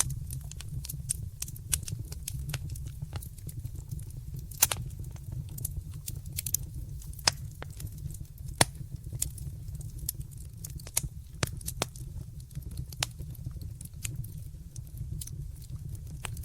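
Fire crackling in a fireplace: irregular sharp pops and snaps over a steady low rumble, with a few louder pops, one a little under halfway and one past halfway.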